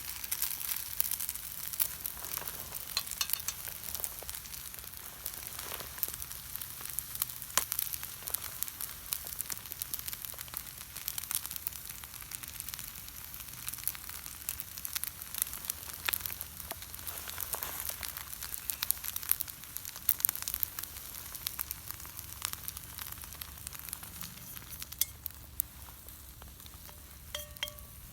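Food sizzling and crackling in a pan over an open wood fire, with occasional stirring; the sizzle dies down near the end.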